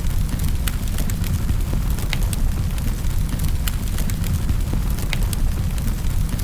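Wood fire in a fireplace crackling, with sharp snaps and pops at irregular moments, about one a second, over a steady low rumble of the flames.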